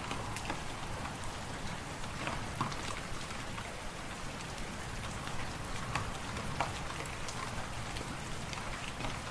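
Wood fire crackling in a fireplace: irregular sharp pops and snaps over a steady hiss, with a low rumble of wind beneath.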